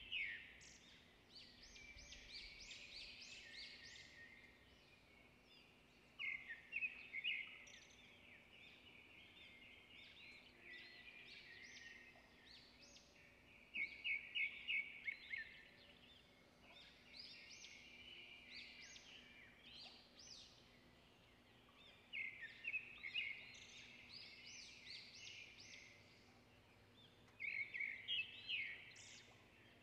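Small birds twittering and chirping in quick, high bursts that come back every six or seven seconds, with softer chirping in between.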